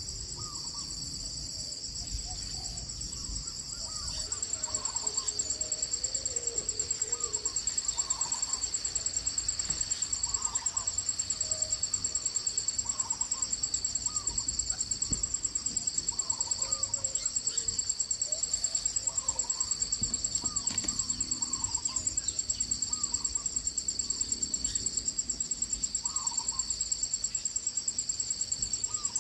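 Insect chorus: a steady, high-pitched, rapidly pulsing trill that gets louder about four seconds in, with short bird chirps every second or two.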